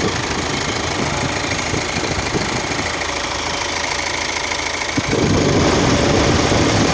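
Hyundai Santa Fe CRDi common-rail diesel engine idling steadily after a leaking fuel return-line O-ring was replaced. It grows louder about five seconds in.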